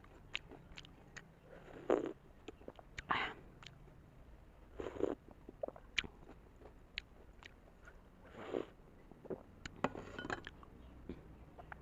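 Close-miked chewing of a large steamed momo dumpling: wet mouth clicks and smacks, with a short, louder noisy burst every few seconds.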